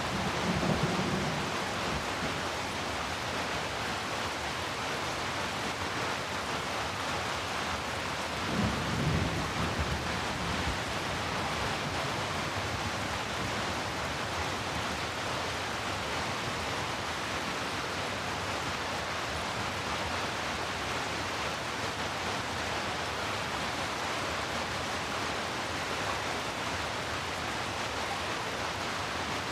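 Heavy rain falling steadily, with low rumbles of thunder at the start and again about nine seconds in.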